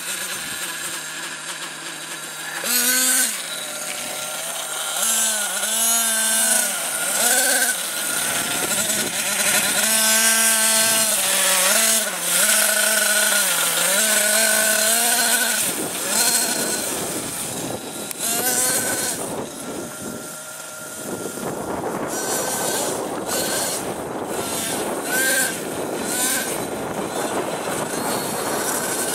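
Nitro RC monster truck engine revving up and down in repeated bursts, its whine rising and falling in pitch. In the last third a steady rushing noise takes over, broken by short sharp blips.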